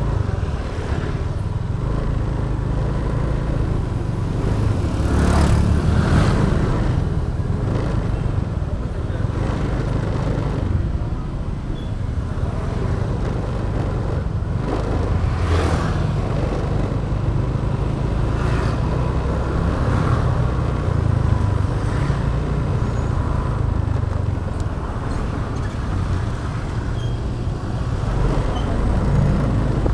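Motorbike riding in city traffic: a steady low engine and road rumble. Other vehicles pass louder a few times, around five to six seconds in and again about fifteen seconds in.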